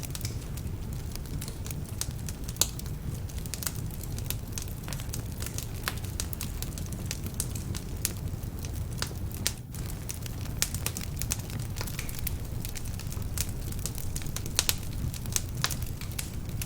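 Wood fire burning in a fireplace: frequent sharp, irregular crackles and pops over a steady low rumble. The crackling comes from logs that are a little damp.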